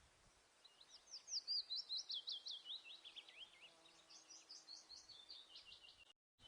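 A small songbird singing a long, rapid series of high, quick down-slurred notes, about five or six a second, for roughly five seconds. The song cuts off abruptly near the end.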